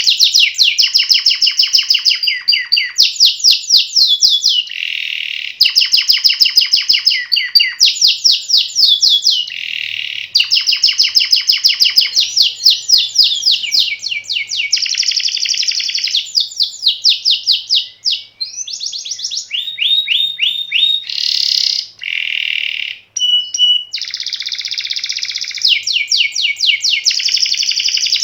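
Canary singing a long continuous song: runs of fast repeated notes and trills, changing phrase every second or two, with sliding notes and a short held whistle near the end.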